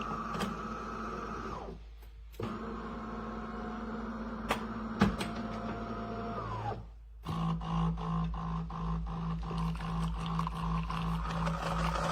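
De'Longhi Rivelia automatic espresso machine running with a steady mechanical hum and scattered clicks. The hum dips briefly about two seconds in, then about halfway through changes to a lower hum that pulses a few times a second.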